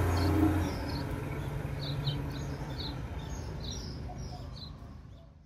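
A 1939 Lincoln Zephyr's flathead V-12 engine receding as the car drives away, its hum dying off within the first couple of seconds, while birds chirp in short calls. Everything fades out near the end.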